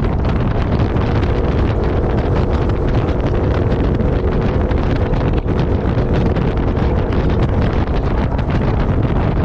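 Wind buffeting the microphone over the steady running noise of a 4x4 off-road vehicle on the move.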